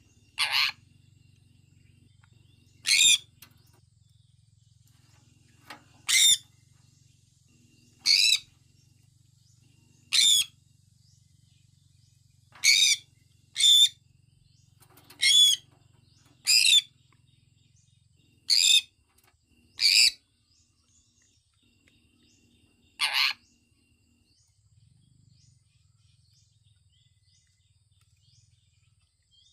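Sun conure giving about a dozen short, loud, high-pitched calls, one every second or two.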